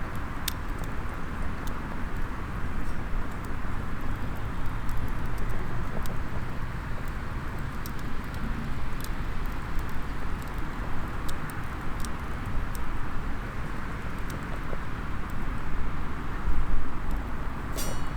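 Small wood fire in a SOTO mini fire stand crackling, with scattered sharp pops and a stronger burst of pops near the end, over a steady wash of outdoor background noise.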